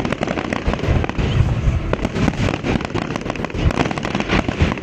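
Fireworks display: a rapid, continuous barrage of bangs and crackling as shells burst, over a low rumble.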